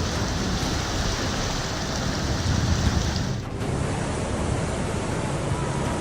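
Rushing floodwater: a loud, steady rushing noise whose character changes abruptly about three and a half seconds in, when the higher hiss drops away.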